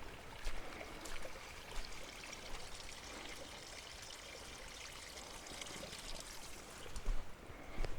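Water running steadily, a trickling flow like a small stream, with a few soft footsteps on the wet trail.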